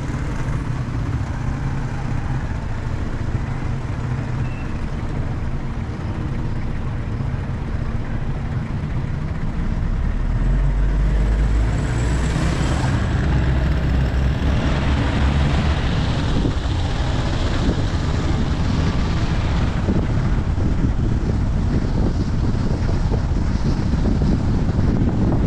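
A vehicle on the move: steady road and engine noise with wind buffeting the microphone, growing louder about ten seconds in.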